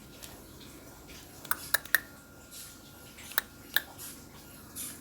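Lovebird giving short, sharp chirps: three in quick succession about one and a half seconds in, then two more about three and a half seconds in.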